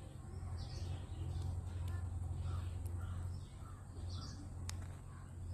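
Short harsh bird calls repeating about once a second over a steady low hum, with one sharp click past the middle.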